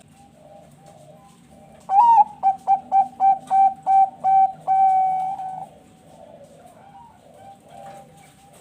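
Zebra dove (perkutut bangkok) cooing: about two seconds in, a loud song starts with a rising note and runs into a quick series of short coos, about three a second, ending in one longer held coo. Fainter cooing from other doves goes on throughout.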